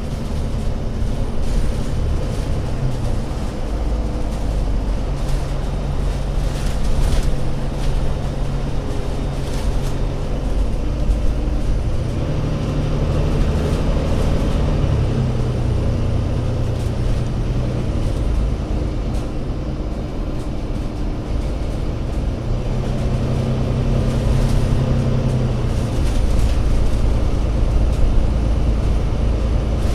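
Engine of an Alexander Dennis Enviro500 MMC Euro 6 double-decker bus running under way, its drone stepping up and down in pitch several times as the bus speeds up and slows, with a few brief knocks.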